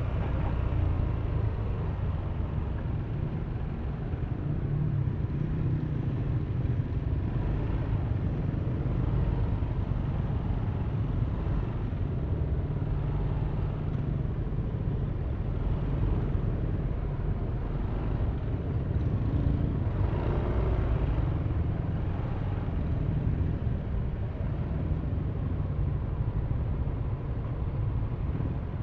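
Yamaha Aerox V3 scooter's 155 cc single-cylinder engine running under the rider, a steady low rumble mixed with road and traffic noise.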